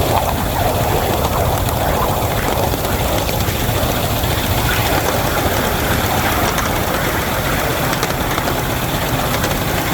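Wabash locomotive No. 713 working with a heavy train: a steady, loud, unbroken rumble and rush of running noise.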